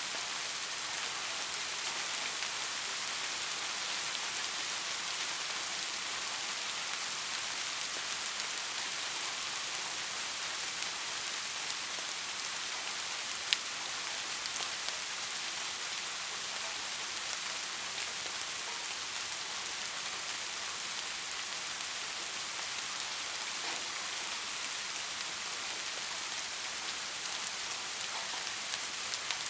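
Steady rain falling, an even hiss with scattered drop ticks, one sharper drop tick about halfway through.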